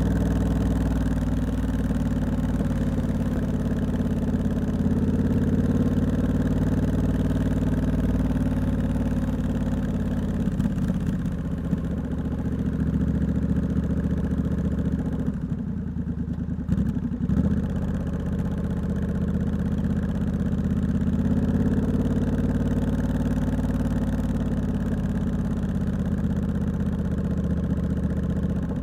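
Triumph Scrambler 1200X's 1200cc parallel-twin engine running through a loud aftermarket Hitchcox exhaust at low, fairly steady revs while riding. The pitch rises and eases off gently. About halfway through the note drops away for a moment, then picks up again.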